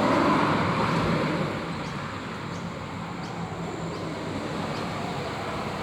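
Road traffic noise: a steady hiss of passing vehicles, swelling in the first second or so as one vehicle goes by, then settling.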